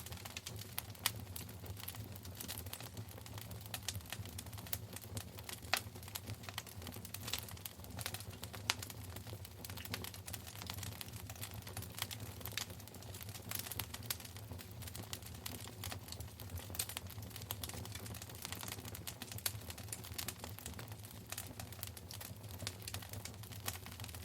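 Wood fire crackling in a fireplace: dense, irregular snaps and pops, a few of them louder, over a steady low rumble.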